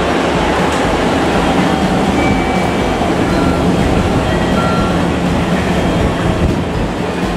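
A train running close by on the station tracks: loud, steady rolling noise with a low steady hum.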